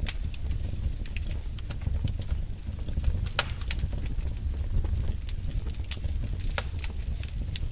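Fire burning in a fireplace: a steady low rumble of flames with irregular sharp crackles and pops, two of them louder.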